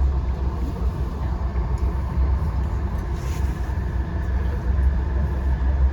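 Steady low rumble of a moving VIA Rail passenger train, heard from inside the coach. A faint steady whine joins about halfway through.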